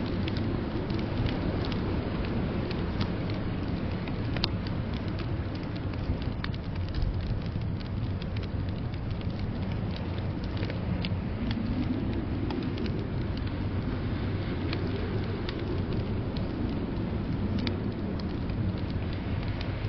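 Wood fire crackling in a fireplace, with scattered sharp pops over a steady low rush of blizzard wind that swells and eases in the middle.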